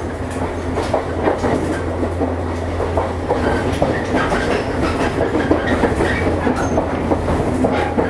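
JR East 115 series electric train running, heard from on board: wheels clattering and knocking over the rails above a steady low hum.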